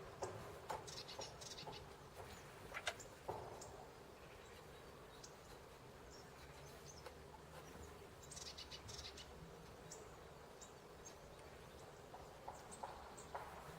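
Small birds at a winter feeder, faint: short high chirps in two brief bouts, one about a second in and one about eight seconds in, among scattered light taps.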